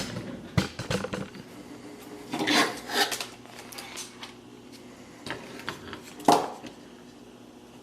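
A circuit board and hand tools handled on a workbench: a few short knocks and clinks, the loudest pair about two and a half to three seconds in and one more just past six seconds. Under them runs a faint steady hum, the soldering station's transformer, which can be heard while the iron is running.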